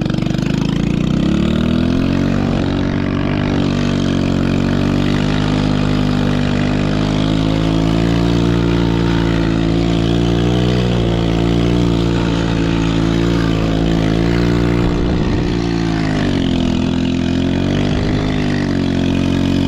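Small single-cylinder four-stroke engine of a Chinese 110cc ATV held at high revs under throttle as the quad spins around in snow. The revs climb in the first couple of seconds, sag briefly about fifteen seconds in, then climb again.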